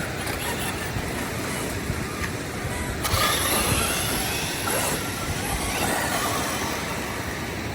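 1:8 scale C8822 RC buggy running over wet ground, a steady noisy rush that gets louder about three seconds in.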